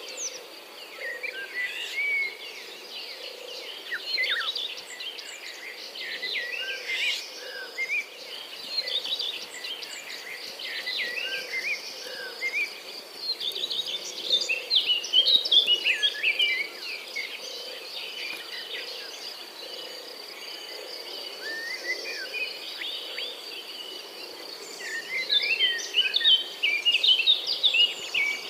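Outdoor nature ambience: many birds chirping and calling over a steady high-pitched insect trill. The bird calls grow busier about halfway through and again near the end.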